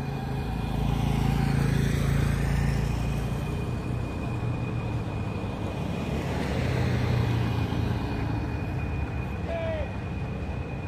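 Heavy truck engines running, the low drone swelling about a second in and again around six seconds in.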